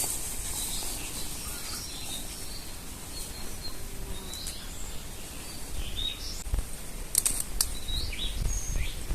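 Small birds chirping in short, scattered calls over steady outdoor background noise, with a few sharp clicks about seven seconds in.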